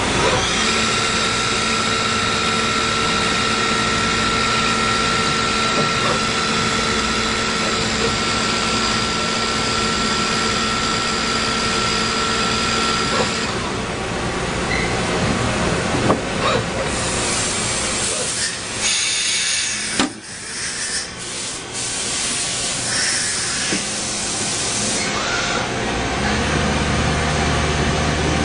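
Wasino SH 5DM CNC lathe running: a steady machine whine of several held tones, which stops about halfway through. A hiss with several short breaks follows, and near the end a low steady hum sets in.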